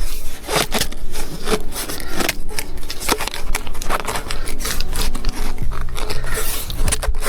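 Irregular scraping and rubbing, many short rough strokes and clicks, as a stuck painted part is worked at to get it out.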